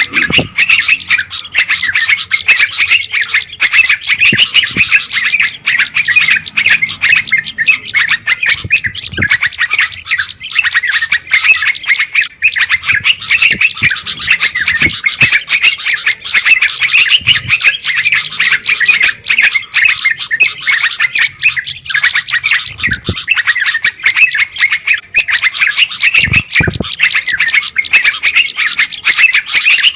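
Bird-lure recording of a loud, dense chorus of many small songbirds chattering and calling without pause, the noisy 'burung ribut' flock sound used to draw wild birds in.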